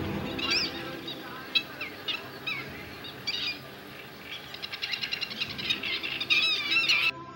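Birds chirping in a recording, short high calls then a fast trill and wavering calls, over a low steady drone. The sound cuts off suddenly shortly before the end.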